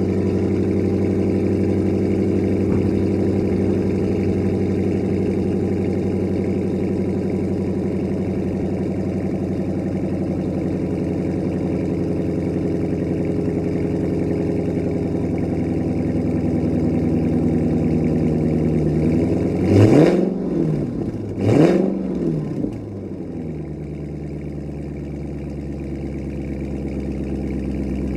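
2020 Dodge Challenger R/T's 5.7-litre HEMI V8 through a Corsa Extreme cat-back exhaust, fast-idling steadily just after a cold start. About twenty seconds in it is revved twice in quick succession, each rev rising and falling back fast, and the idle then settles lower.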